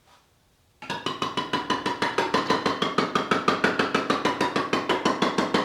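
A mallet tapping the lid onto a metal can of POR-15 paint: a fast, even run of ringing metallic strikes, about eight or nine a second, starting a little under a second in.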